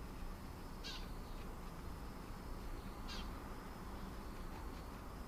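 A bird calling in short, high calls, twice about two seconds apart, over a steady low suburban background hum.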